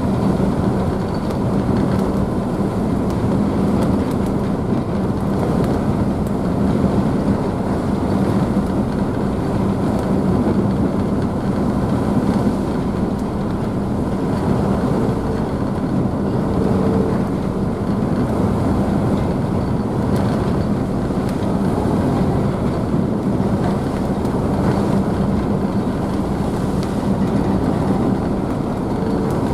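Car ferry's engines running steadily with a low hum, under the constant rush of the wake and spray churned up behind the stern, heard from the rear deck.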